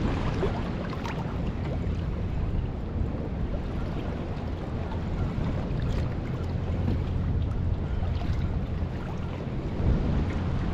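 Wind buffeting the microphone over choppy water splashing and slapping around a small fishing boat, a steady rumbling rush with a few brief splashes and knocks.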